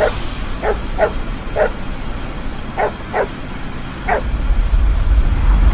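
A dog barking: about seven short barks, irregularly spaced. A low rumble builds near the end.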